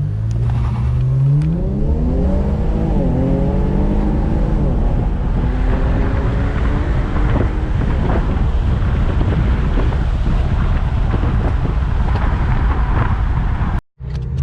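2018 Infiniti Q50's twin-turbo 3.0-litre V6, exhaust opened up by a muffler delete and fed by AEM intakes, accelerating hard from a launch. The engine note climbs, dips briefly at a gear change about three seconds in, climbs again, then gives way to a steady loud rumble at speed.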